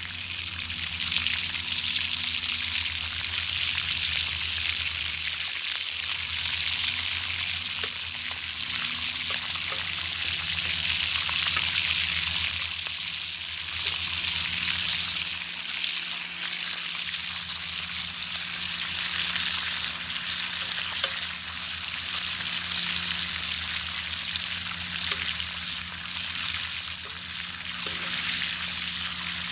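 Bacon frying in a pan over a campfire: a dense, steady sizzle with fine crackles and pops throughout, over a low steady hum.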